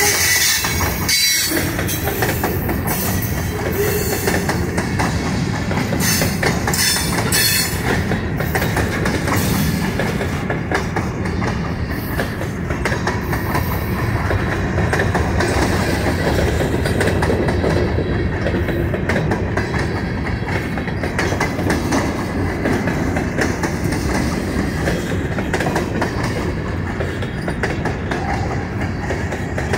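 Railroad cars rolling past on steel rails: a steady rumble of wheel and rail noise, with a clickety-clack of wheels over the rail joints.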